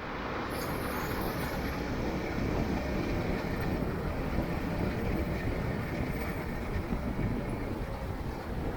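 Steady rumble of a moving motorcycle with road and wind noise.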